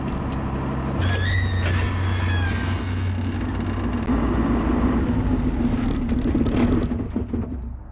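Tractor engine running with a steady low drone, with a high squeal that sets in about a second in and fades over a second and a half, sliding slightly down in pitch.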